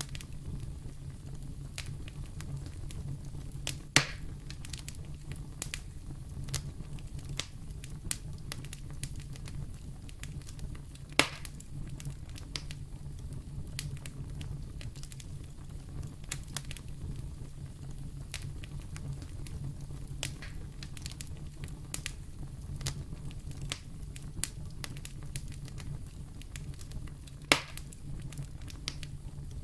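Wood fire burning in a fireplace: a steady low rumble with constant small crackles and three louder sharp pops.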